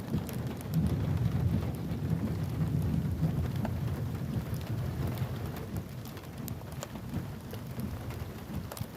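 Rain falling steadily, with scattered sharp drop ticks over a low rumble that swells about a second in and slowly eases.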